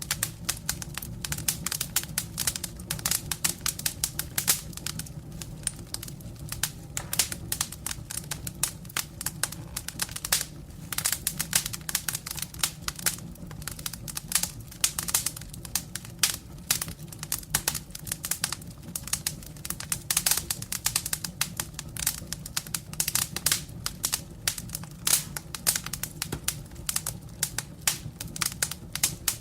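Firewood burning in a fireplace: a steady low rumble of the fire with dense, irregular crackling and popping of the wood.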